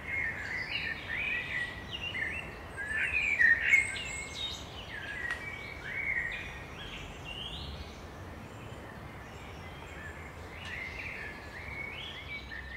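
Small birds chirping: many short, quick calls and little rising sweeps that keep overlapping, over a faint low background rumble.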